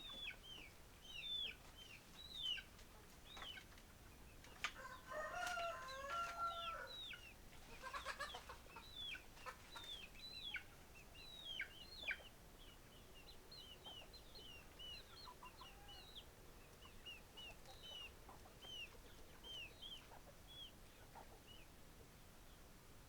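Chickens calling: a long run of short, high, falling peeps, with lower, louder calls about 5 to 8 seconds in.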